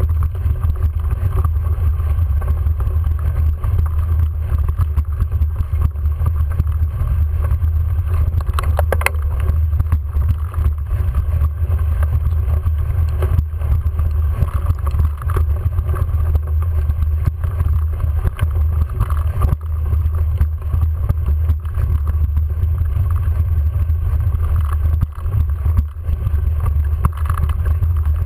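Steady low rumble of wind buffeting and riding noise on a bike-mounted or helmet camera's microphone during a bicycle climb, with a few faint clicks and rattles.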